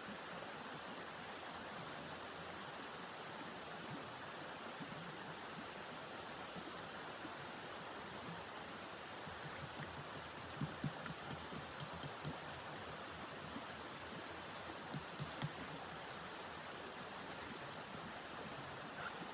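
Steady rushing blizzard wind, with a run of sharp crisp crunches about halfway through and three more shortly after.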